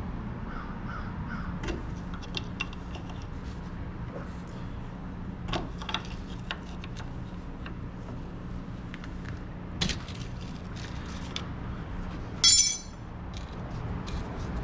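Scattered metal clicks and knocks of hand tools on a coilover as its lock nut is loosened, over a steady low hum. About twelve and a half seconds in comes one short, loud, high-pitched screech.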